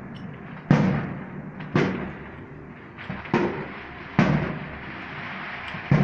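Aerial firework shells bursting overhead: five loud bangs at uneven intervals, each followed by an echo that fades over about a second.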